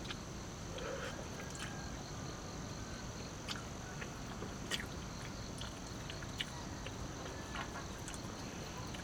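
Steady high-pitched insect chorus, with scattered faint clicks and ticks.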